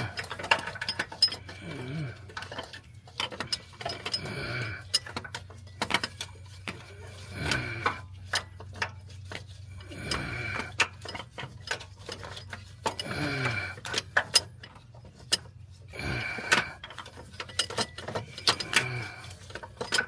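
Ratchet wrench clicking and tools knocking against metal in a cramped engine bay as a bolt is worked on, in irregular runs of sharp clicks.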